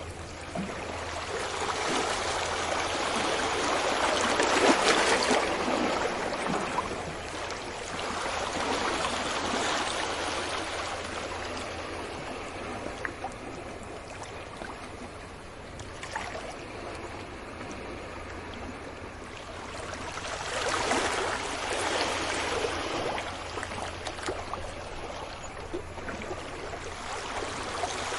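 Sea waves breaking on a beach and washing back, a rushing surf that swells loudest about five seconds in, more softly near ten seconds, and again about twenty-one seconds in.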